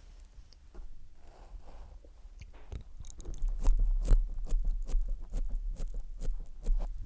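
Close-up wet mouth sounds and licking on the microphone: sharp clicks with low thuds of contact on the mic, sparse at first, then denser and louder from about halfway through until they stop near the end.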